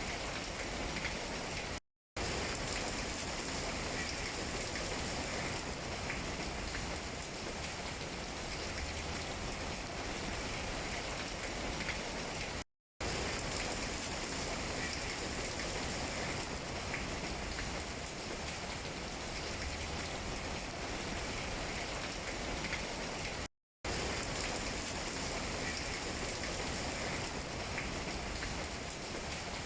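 Steady rain falling on tree leaves: an even hiss with faint pattering drops. It cuts out to silence three times for a fraction of a second, roughly every eleven seconds.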